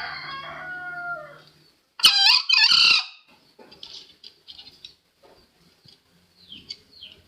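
Green junglefowl crowing: a call with falling pitch tails off over the first second and a half, then a loud, short, shrill crow comes about two seconds in. Faint scattered clicks follow.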